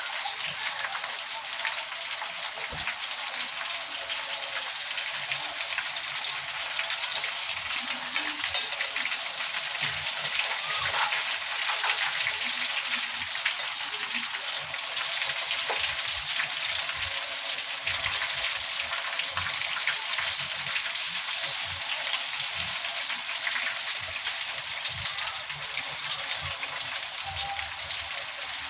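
Chicken frying in hot canola oil: a steady sizzle with fine crackling pops throughout.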